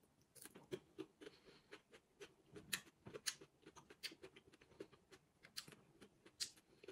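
Faint, irregular crunching of a person chewing a crisp slice of unripe Vietnamese green mango, many small crunches a second.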